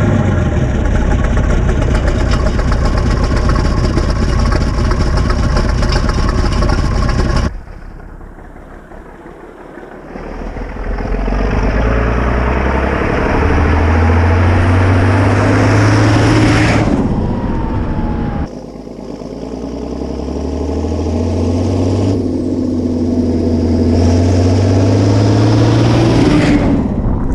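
Massey Ferguson 699 turbo diesel tractor engine running at steady revs. After a sudden drop in level about 7 seconds in, it twice accelerates with a rising engine note, each time cutting off abruptly.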